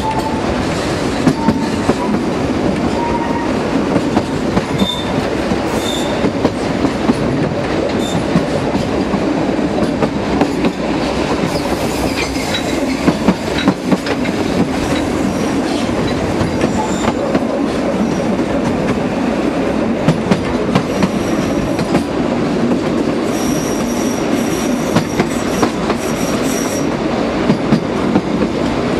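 Narrow-gauge train running, with its wheels clattering and clicking over the track. Near the end, a high wheel squeal lasts a few seconds.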